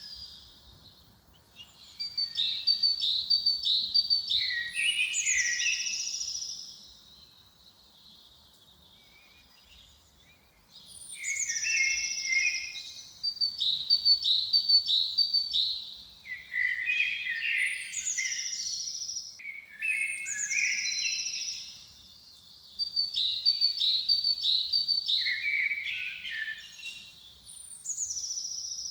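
Songbird singing the same short phrase over and over: a falling high whistle, a run of quick trilled notes, then lower twittering. Each phrase lasts a few seconds, with a longer pause after the second one.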